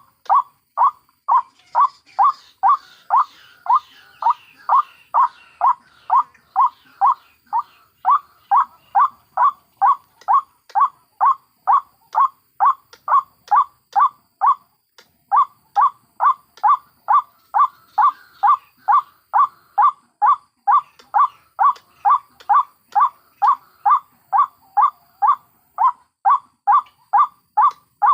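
White-breasted waterhen (ruak-ruak) calling over and over at about two calls a second, each call short and the same as the last. The calls break off briefly about halfway through, and fainter, higher chatter lies behind them in places. This is a lure recording made to draw waterhens in.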